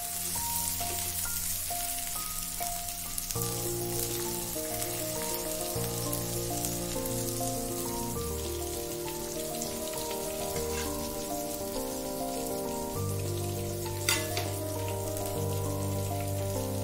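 Background music of slow, held instrumental chords over the steady hiss of chicken keema tikkis frying in hot oil, with one sharp tick near the end.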